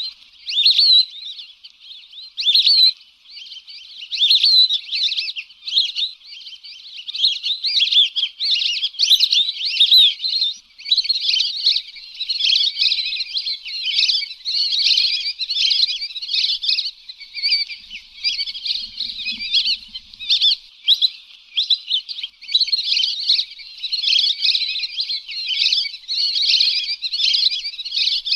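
Lesser whistling ducks giving a dense, continuous chorus of high, rapid whistled calls, many notes overlapping: a whistling-duck lure call.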